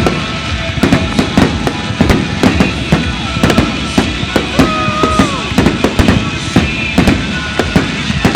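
Fireworks going off in rapid succession: a dense, continuous string of sharp bangs and crackles.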